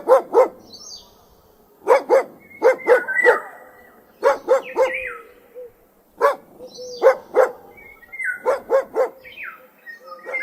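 Dog barking in quick bunches of two to four barks, the bunches coming every second or two.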